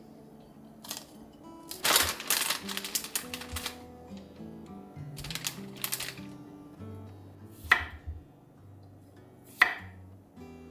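Background music with a steady run of low notes. Over it come crisp, rapid scraping clicks about two seconds in, more around five to six seconds, and two sharp knocks later: kitchen handling sounds of a toasted bagel being prepared.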